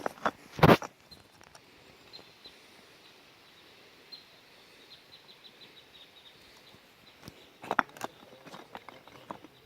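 Dry twigs and leaf litter crunching and cracking on the forest floor in two bouts, a sharp burst about a second in and a run of crackles near the end. Faint, high chirps tick between them.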